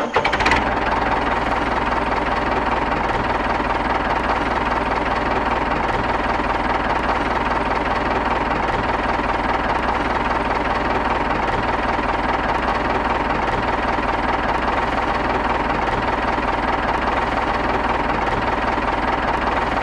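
Tractor engine running steadily at an even speed, with no change in pitch or level.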